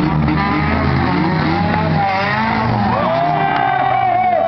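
Four-cylinder demolition derby cars' engines revving. From about halfway in, tires squeal in wavering, gliding tones.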